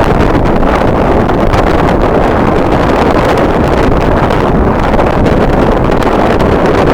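Strong wind blowing across the microphone: a loud, steady rushing noise with no distinct tones.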